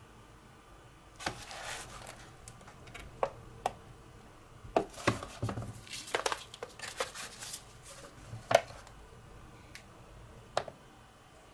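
Hard plastic parts of a cordless vacuum cleaner being handled and taken apart: irregular clicks and knocks, a short rustle about a second in, a busy run of clicks in the middle, and single sharp clicks near the end.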